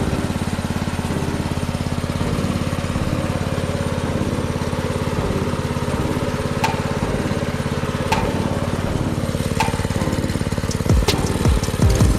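Mega Moto minibike's 224cc HEMI single-cylinder engine running steadily at an even speed, with no revving. A few faint clicks come about every second and a half in the second half.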